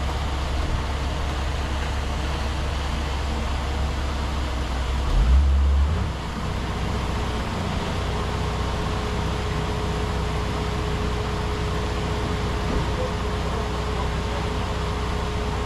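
Heavy earthmoving machine's diesel engine running steadily with a low drone. It swells briefly about five seconds in, and a steady whine joins it about eight seconds in.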